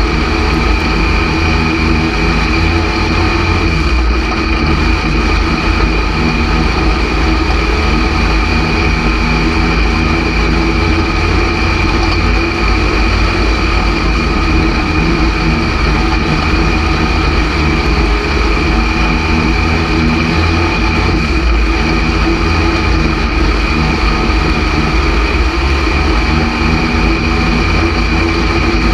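Stock car's engine running under race load, heard from inside the cockpit as a steady, loud low rumble. The car is down on power, which the driver puts down to motor issues.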